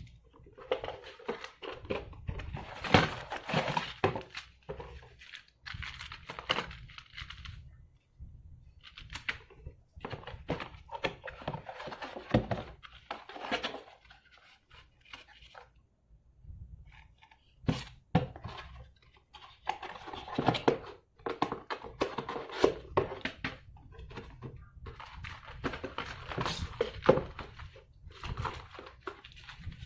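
Packaging being handled and opened: irregular rustling, tearing and knocks of cardboard and plastic, in bursts with short pauses.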